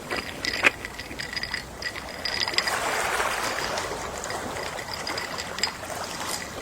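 Gentle sea wave washing in and ebbing away over a few seconds, with scattered small clicks and a faint steady high tone in the background ambience.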